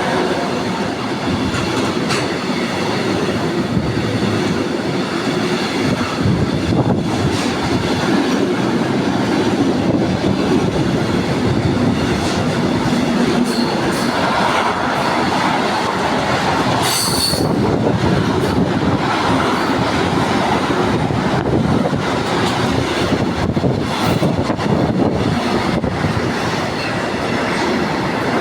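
A train hauled by an Akiem Class 185 electric locomotive rolling past, its wheels rumbling steadily and clicking over rail joints. There is a brief high wheel squeal a little past halfway.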